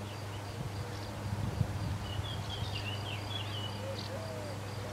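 Outdoor birdsong over a steady low hum: a small bird twitters in a quick run of short high chirps about two seconds in, and a dove starts cooing in low, rounded notes near the end.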